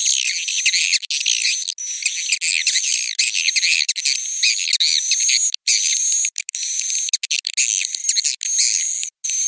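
Swiftlet roosting-call lure recording: a dense flock of swiftlets twittering and chirping, all high-pitched with nothing low. A thin high tone comes and goes through it, and the sound breaks off in several sudden brief dropouts.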